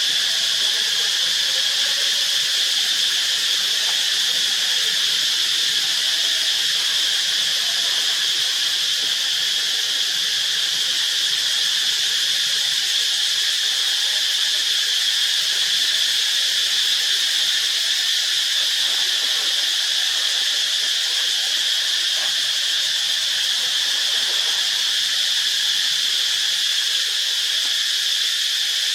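Insects droning in a continuous chorus: a steady, high-pitched hiss that holds the same level without a break.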